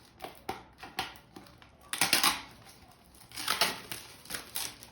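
Thin plastic PET bottle crinkling and clicking as it is handled and a part is pulled off it: scattered sharp clicks with a couple of louder crackling bursts.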